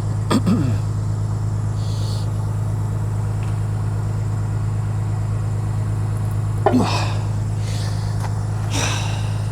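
Kenworth W900 diesel truck engine idling steadily, with a few brief noises over it near the start, about two-thirds through and near the end.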